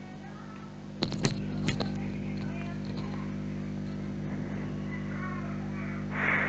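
A steady low electrical hum, with a quick run of three or four sharp clicks about a second in and faint voices in the background. A short soft hiss comes near the end.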